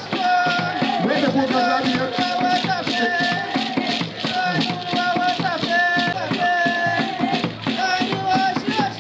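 Music for the taushita rain dance: hand rattles shaken in a steady rhythm under a melody of held notes.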